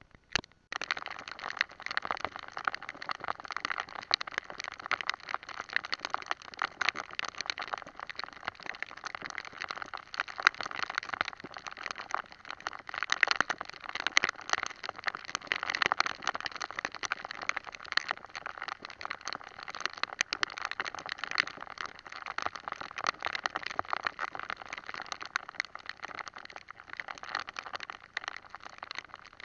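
Heavy rain pattering on a hard surface: a dense, steady crackle of countless drops that starts abruptly just under a second in.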